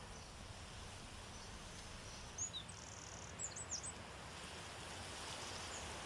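Quiet outdoor ambience with a faint steady hiss; a small bird gives a few short high chirps and a brief buzzy trill between about two and four seconds in.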